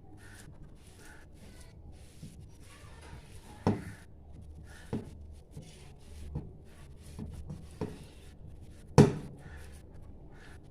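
Kitchen handling sounds while mixing paneer dough: soft rubbing and scraping with a few light knocks of a utensil against a bowl, the sharpest knock about nine seconds in.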